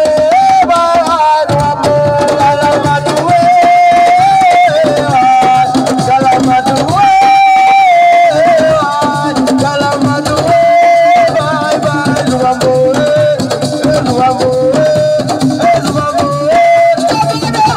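Assiko band playing: hand drums and percussion keep up a busy rhythm under a melody of held notes that step up and down.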